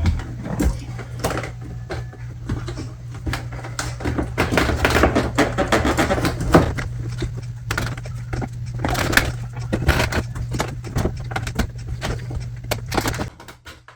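Plastic retaining clips of a car's inner door trim panel popping and clattering as the panel is pried loose around its edge, many irregular clicks and knocks. A steady low hum runs underneath and stops near the end.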